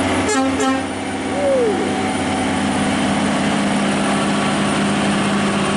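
Heavy truck's diesel engine running steadily as the truck passes, with a short rattle of clicks about half a second in.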